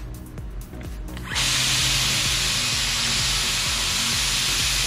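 Worx Hydroshot 40V cordless power cleaner running and spraying: a steady motor hum under a loud hiss of the water jet. It starts suddenly about a second in and cuts off sharply near the end.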